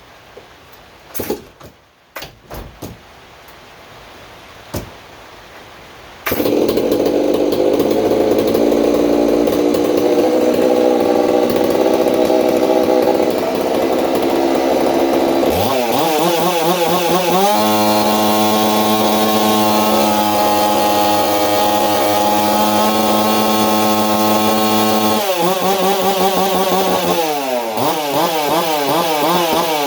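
A few knocks, then a Holzforma G660 chainsaw (a 92cc two-stroke clone of the Stihl MS660) fitted with an Egan straight-shot muffler starts about six seconds in and idles. It is then revved to full throttle and held there, at about 12,700 rpm. It drops back, then revs again near the end.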